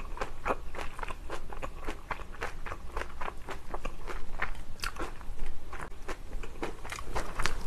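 Close-miked chewing of a mouthful of kimchi fried rice with Spam, flying fish roe and sliced cheongyang chilies: an irregular run of small clicks and crackles. A spoon scrapes and taps through the rice on the plate.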